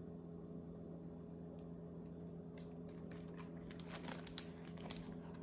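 Faint rustling and small scattered clicks, starting about halfway through, over a steady low electrical hum.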